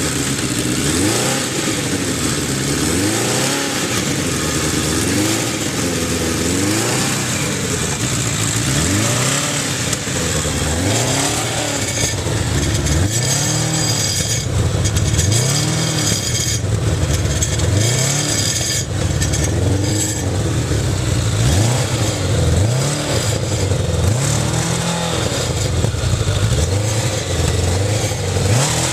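Motorcycle engine running and being revved over and over, its pitch rising and falling every second or two.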